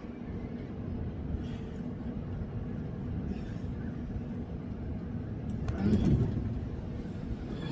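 Wind buffeting the microphone as a steady low rumble, swelling louder about six seconds in.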